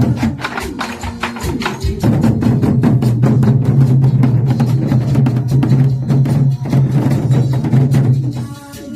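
Buk nanta drumming: rapid, rhythmic strikes on Korean buk drums played over a recorded music backing track, with a held low note under the beat for most of the passage.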